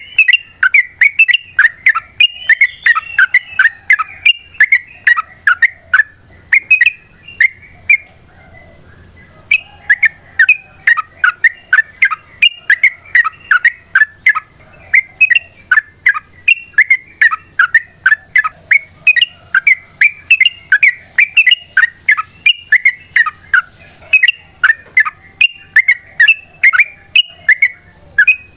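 Yellow-vented bulbul (trucukan) singing a long, rapid run of bubbly chattering notes, the energetic fighting song of a bird in full voice, with a short pause about eight seconds in. A faint steady high-pitched whine runs underneath.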